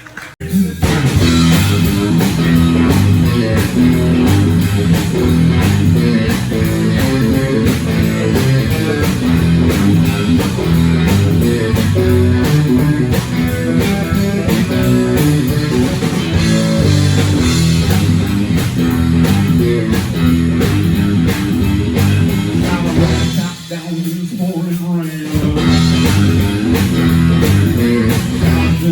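Live blues-rock band playing an instrumental passage on electric guitar and bass, kicking in about half a second in; the bass and low end drop out for about two seconds near the end, then come back in.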